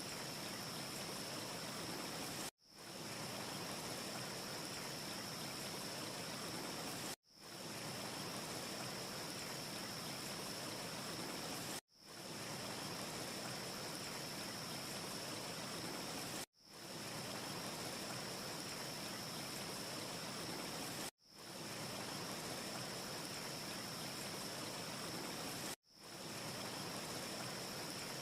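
Steady hiss of a looped wind ambience track with a thin, high steady tone running through it. The loop drops out abruptly and fades back in about every four and a half seconds, six times over. No fire crackle can be picked out.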